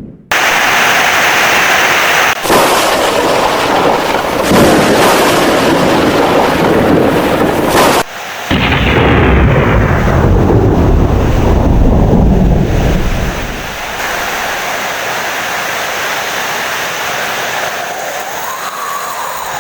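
Heavy rain with thunder rumbling, broken by abrupt cuts near the start and about eight seconds in. The thunder fades about two-thirds of the way through, leaving steady rain.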